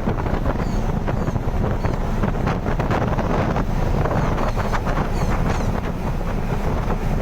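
Wind buffeting the microphone, a steady loud rumble, with a few faint short high chirps now and then.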